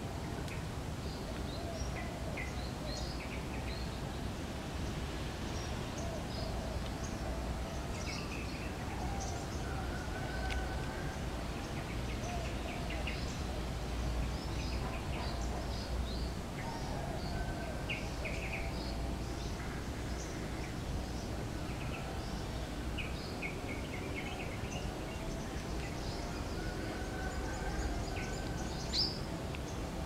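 Birds chirping in the trees, many short, high chirps scattered throughout with some lower, wavering calls at times, over a steady low background rumble.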